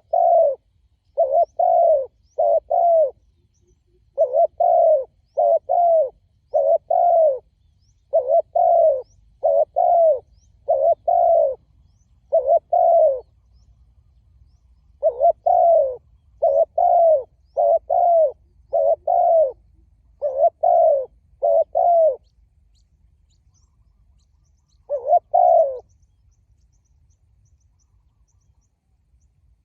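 Spotted dove cooing: short coo notes, each falling slightly in pitch, repeated in quick groups of two or three. The calling breaks off about 22 seconds in, with one last group a few seconds later.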